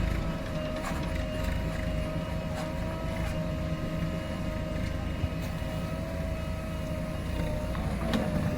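JCB 3DX backhoe loader running steadily while it works, a diesel rumble with a steady high whine over it and a few light knocks, one sharper near the end.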